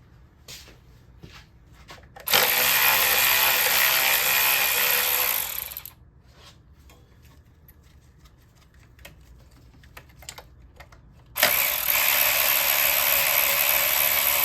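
A power tool running in two steady bursts of about three and a half seconds each, several seconds apart, spinning out ignition-coil hold-down bolts. Light clicks and handling sounds come between the bursts.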